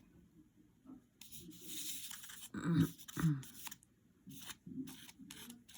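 Paintbrush scrubbing acrylic paint across the painting surface in a scratchy stroke lasting about a second, followed by two louder soft knocks and a few small clicks of handling.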